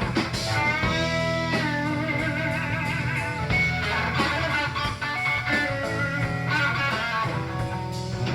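Live rock band playing an instrumental, recorded on cassette in a club: an electric guitar plays a lead line of held, bent and wavering notes over bass and a steady beat.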